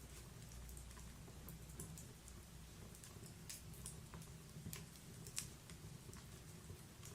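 Wood-burning log fire crackling: faint, irregular snaps and pops over a low steady rumble, the sharpest pop about five seconds in.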